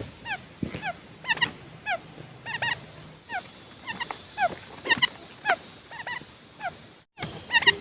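Quail calling: short whistled notes that slide downward, repeated in quick clusters every half second or so, with a brief break about seven seconds in.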